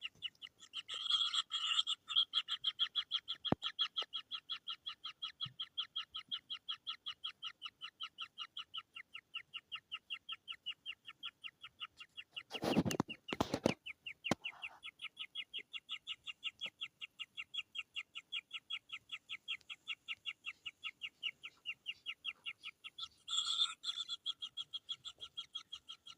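Kingfisher nestlings begging: a fast, steady run of short, high, evenly repeated calls, growing denser and louder where several chicks call at once, the sign of hungry chicks. About halfway through there is a brief loud rustle or knock.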